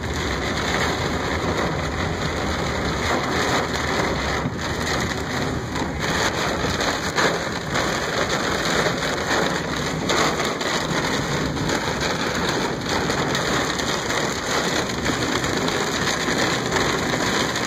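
Heavy thunderstorm rain beating steadily on a car's roof and windows, heard from inside the cabin.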